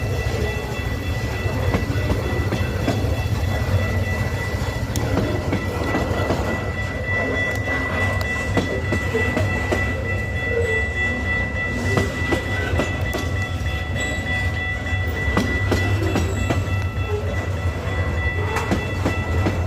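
Train rolling past a level crossing: a steady low rumble with the clatter of wheels over the rails and a steady high-pitched tone throughout.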